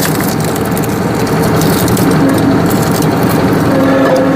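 Tractor engine running steadily, powering a tractor-mounted hydraulic log splitter, with a steady hum that grows stronger about two seconds in.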